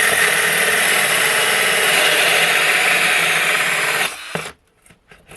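Power drill running steadily at speed for about four seconds, then stopping.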